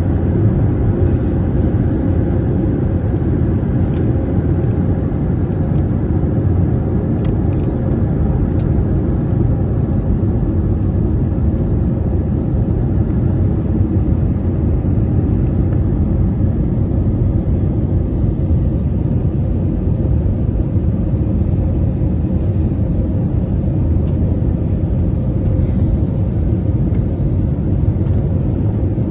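Steady low rumble of an airliner cabin on approach, engines and airflow running evenly, with a steady hum and a few faint ticks.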